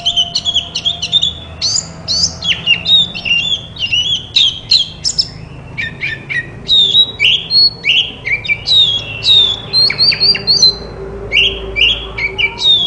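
Oriental magpie-robin (kacer) singing a fast, varied song of short whistles, sliding notes and harsher squawky calls, phrase after phrase with barely a break.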